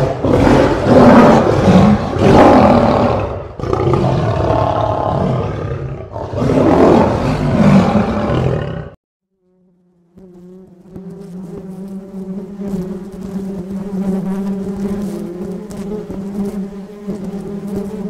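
A male lion roaring in several long, loud bouts for about nine seconds. After a short pause comes the low, steady buzz of a bumblebee.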